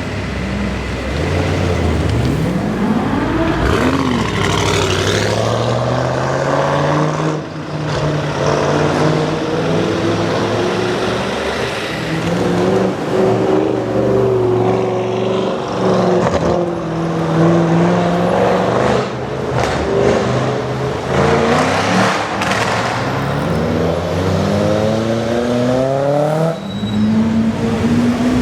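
Straight-piped Audi RS7 twin-turbo V8 revving and driving, its exhaust note rising and falling again and again, with a few sharp cracks along the way.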